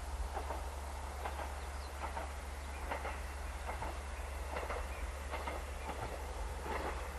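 KiHa 120 diesel railcar running along the line, its wheels clicking over rail joints in an uneven series over a steady low rumble.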